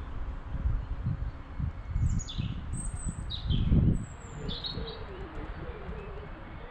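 Small garden birds calling: a run of short, high chirps sliding downward in pitch, over a low rumbling noise that peaks about midway.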